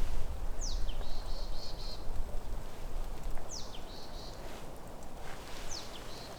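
A bird calling three times, about every two to three seconds: each call a quick falling whistle followed by a short run of notes. Under it, a low rumble that fades over the first few seconds.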